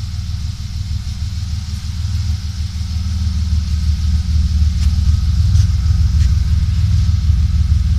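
BMW M50 inline-six, stroked to 3.1 litres with a ported head and an equal-length manifold into twin 50 mm straight pipes, idling steadily on its first run. Its low exhaust rumble grows louder as the microphone moves toward the back of the car, and a few faint ticks come about five and six seconds in.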